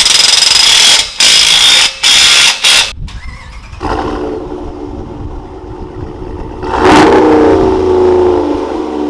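Four loud hissing bursts in the first three seconds, each cutting off sharply, then a pickup truck engine running with a throaty note and a loud rev about seven seconds in.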